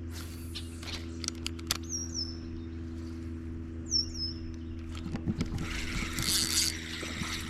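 A small bird calling twice, short high chirps that slide downward, about two seconds apart, over a steady low hum with scattered clicks and a short rushing burst about six seconds in.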